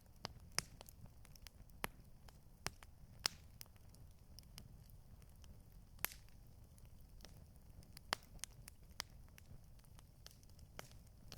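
Campfire crackling: burning wood gives irregular sharp snaps and pops, a few of them louder, over a faint low rumble.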